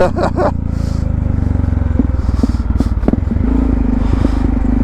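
Motorcycle engine idling steadily in neutral, picked up by a helmet microphone, with a few light clicks about two to three seconds in.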